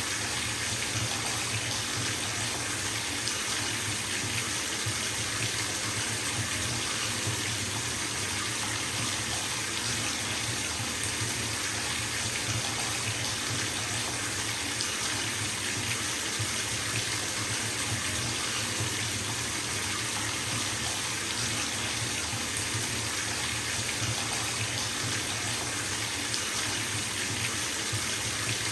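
Bathtub tap running steadily into a filling tub, a constant splashing rush of water.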